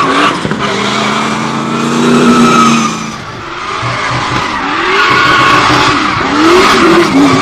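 Drift car sliding with its tyres screeching and the engine revving up and down. The engine eases off about three seconds in, then climbs back to full revs near the end.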